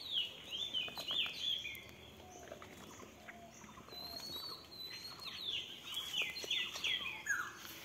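Small birds chirping: quick runs of short falling chirps, one cluster at the start and another from about four seconds in.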